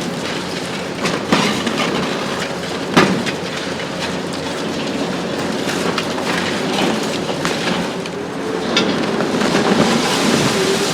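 Concrete and rubble cracking and clattering as a Hitachi ZX 870 long-front excavator's demolition shear breaks up a building, over steady machine noise. There are many irregular sharp cracks, the strongest about three seconds in.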